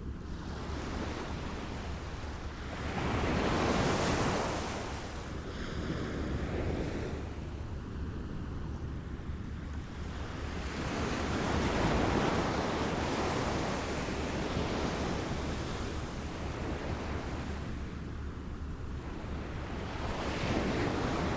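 Small waves lapping on a shore, swelling and receding in slow surges several seconds apart, with a low rumble of wind or surf beneath.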